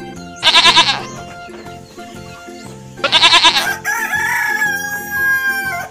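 Etawa goats bleating, two short quavering bleats about half a second in and about three seconds in. After the second bleat a rooster crows, ending in one long held note.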